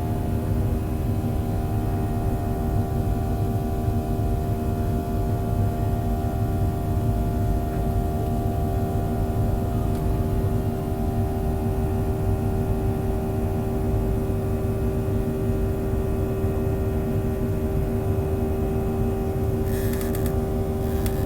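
Boeing 737-800's CFM56 jet engines heard from inside the cabin: a steady, loud rumble with a constant hum of several tones. A few short clicks come near the end.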